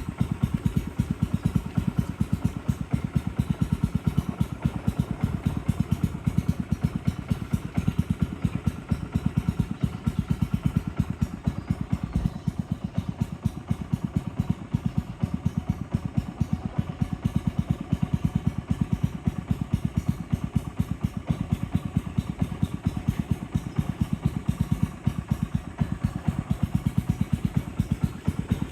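Boat engine running steadily under way, with a rapid, even chugging beat.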